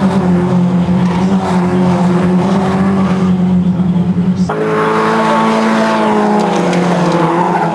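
Racing car engines running at steady high revs. About halfway through the sound switches abruptly to another engine note that slowly falls in pitch, then switches back just before the end.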